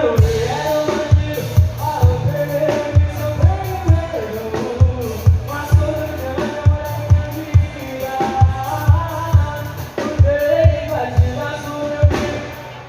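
Live band playing a sertanejo song, a steady drum beat about twice a second under a melody line.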